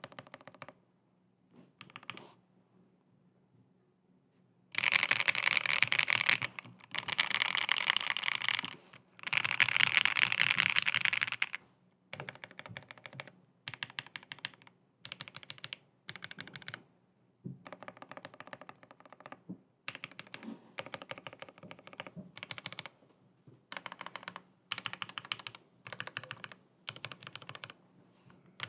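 Typing on a Cannonkeys Bakeneko 65 aluminum mechanical keyboard, with lubed and filmed Tangerine linear switches and polyfill damping. After a few quiet seconds, there are three fast runs of keystrokes, then shorter clusters of keystrokes about once a second.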